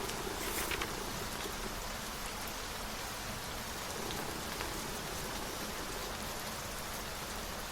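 Steady rain falling, an even hiss with scattered drop ticks and a brief louder patch about half a second in.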